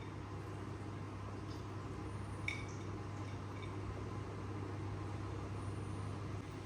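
A steady low hum, with one short click about two and a half seconds in; the hum stops shortly before the end.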